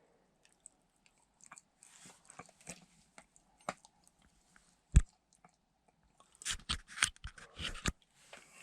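Scattered light clicks and taps from hands working a car's head unit and phone to turn on Bluetooth, with one sharp click about five seconds in and a quick run of clicks near the end.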